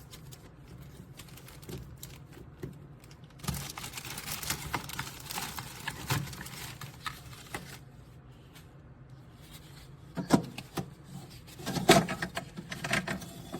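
A plastic ice cube tray being handled and fitted into a mini fridge's small freezer compartment: rustling and scraping with scattered light clicks, and a few sharper plastic knocks near the end.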